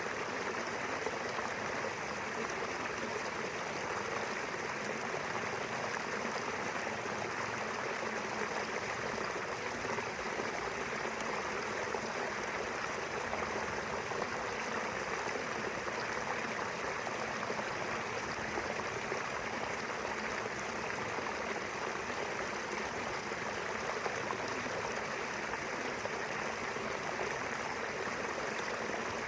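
Small river flowing steadily, a constant rushing and burbling of running water.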